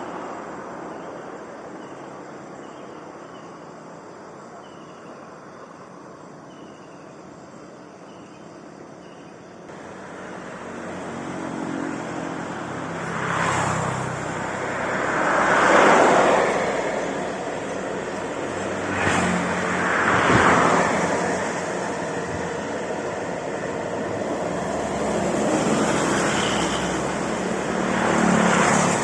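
Highway traffic: a steady low hum at first, then, from about ten seconds in, vehicles passing one after another, each swelling up and fading away.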